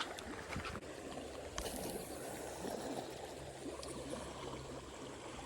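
River water running and trickling steadily, with a few faint clicks.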